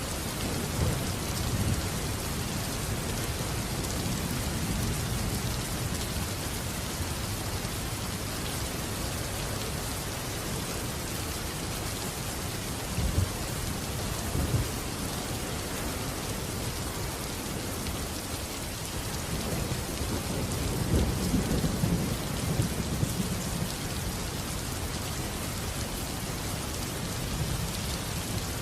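Steady heavy rain falling, with low rolls of thunder rumbling in at the start, again around the middle, and most strongly about two-thirds of the way through.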